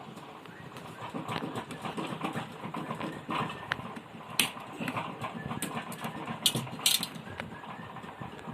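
Hand tools clicking and tapping irregularly against a TV circuit board while components are worked off it, with a few sharper clicks in the second half.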